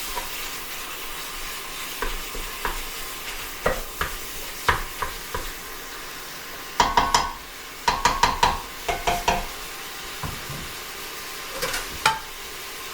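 Beef sizzling steadily as it fries in a pan, with scattered knocks and clinks of things being handled, bunched in two short rattling clusters about seven and eight to nine seconds in.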